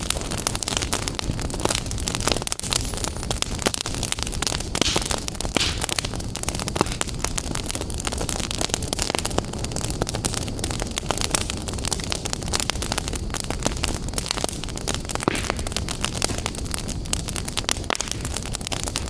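Wood fire burning in a fireplace, crackling and popping continuously over a steady rush of flame noise.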